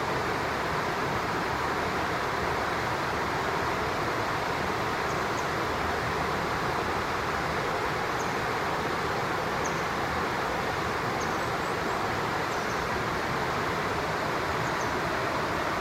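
Steady rush of flowing stream water, with faint short high-pitched bird chirps every second or two.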